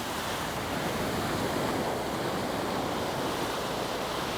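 Small surf washing onto a sandy beach, a steady wash of breaking waves.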